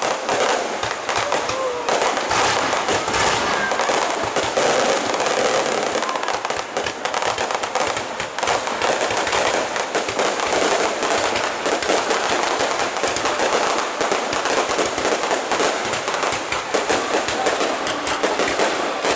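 Aerial fireworks display bursting without pause: a dense, continuous crackle of rapid pops and bangs.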